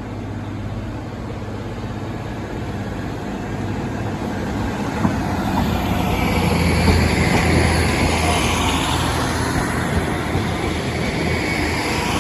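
Transport for Wales diesel multiple unit approaching and running in over the level crossing, its low engine drone and wheel noise growing louder to a peak about halfway through, then holding steady.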